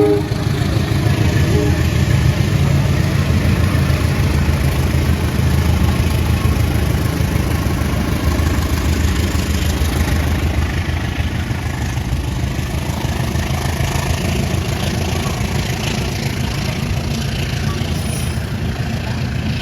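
Diesel locomotive engine running with a loud, deep, steady drone that slowly fades as the train moves away.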